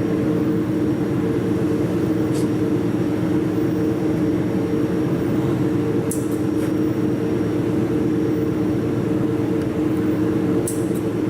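Jewelry laser welding machine running with a steady hum, broken by a few short sharp clicks.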